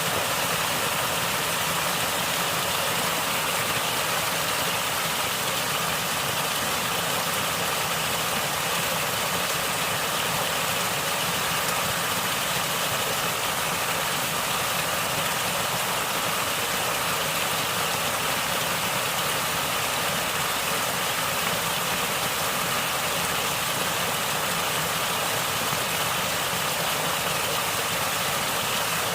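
Natural stream water flowing and gurgling as a steady, unbroken rush.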